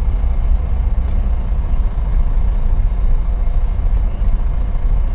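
Semi-truck's diesel engine running, a steady low rumble heard from inside the cab.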